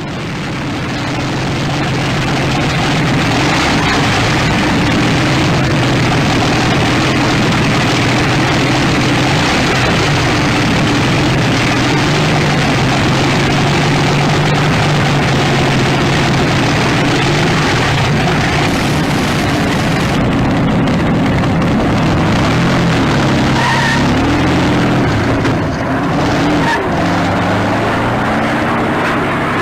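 Bentley car's 42-litre Packard V12 aero-type engine running loud and steady, its pitch wavering up and down as the revs change in the last several seconds.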